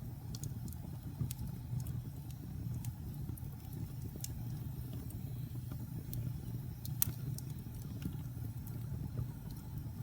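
Fireplace fire crackling: scattered sharp pops at irregular moments over a low, steady rumble, with one louder pop about seven seconds in.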